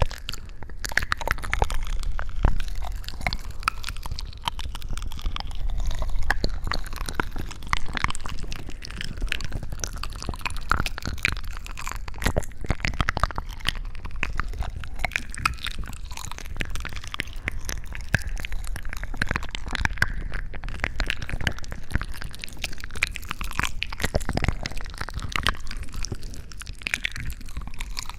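Close-miked ASMR crunching and crackling: a dense, continuous run of small clicks and crackles over a low rumble.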